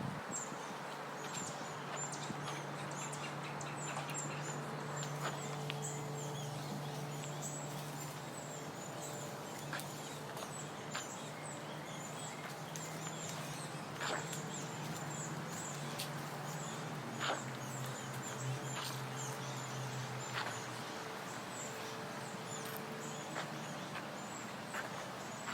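Small birds chirping over and over, high and quick, above a low steady hum, with occasional sharp clicks.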